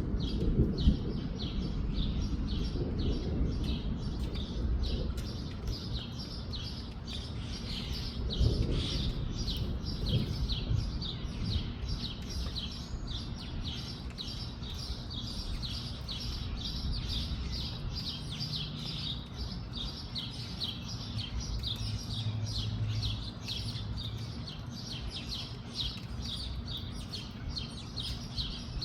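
A bird chirping over and over, short high chirps at about three a second. Gusts of wind rumble on the microphone, strongest near the start and again about eight seconds in.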